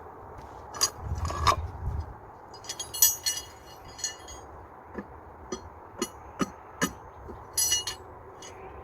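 Bricks clinking and knocking against each other as they are handled and stacked. A heavier thud and scrape comes about a second in, then a string of separate sharp clinks.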